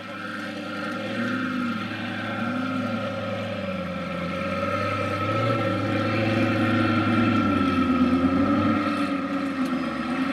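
Twin-turbocharged Lamborghini Gallardo's 5.2-litre V10 running, with two short throttle blips in the first few seconds, then growing louder with a slower rise and fall in revs between about six and nine seconds in.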